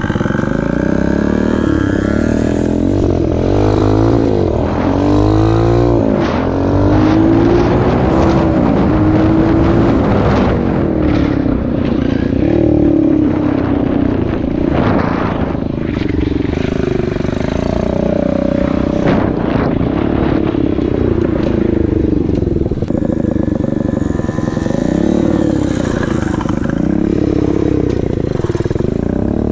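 Pit bike engine running under way, its pitch rising and falling again and again as it revs up and eases off.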